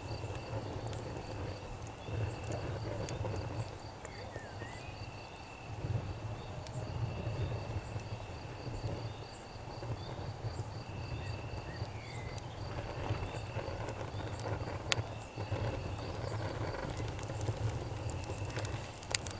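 Night insect chorus: crickets chirping in a steady pulsing rhythm, with a second insect buzzing in bursts of about a second, over a steady low rumble. Campfire crackles are scattered through it, with a couple of sharp pops, one near the end.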